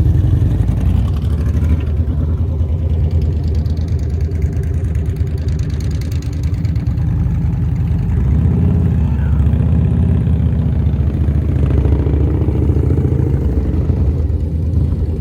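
Motorcycle engine running at low revs through a slow, tight U-turn: a steady low engine note that swells a little now and then.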